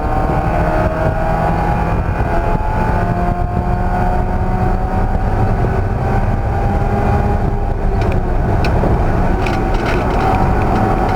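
Race car engine running hard under load, its pitch climbing slowly as it accelerates and dropping back several times, with a few short clicks in the last few seconds.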